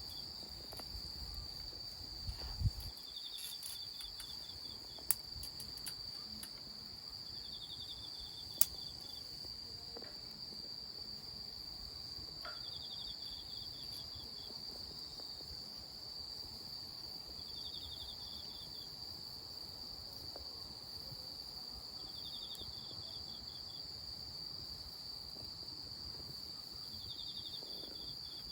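Insects trilling: a steady high-pitched trill, with a second pulsed call of about a second and a half repeating roughly every four to five seconds. Three sharp snaps stand out in the first nine seconds.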